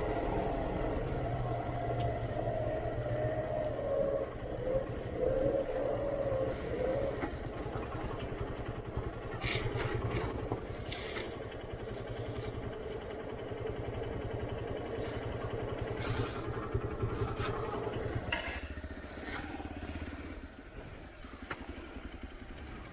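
Motorcycle engine running at low revs on a rough off-road track, its pitch wavering over the first several seconds, with scattered sharp knocks and clatter. About eighteen seconds in, the engine note drops away and the sound gets quieter.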